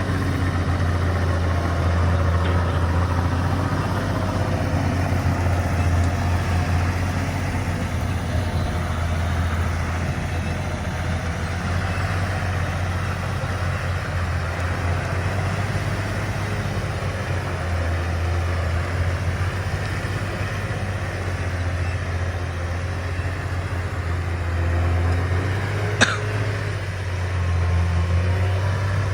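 Excavator's diesel engine running steadily with a low, even hum, and a single sharp knock near the end.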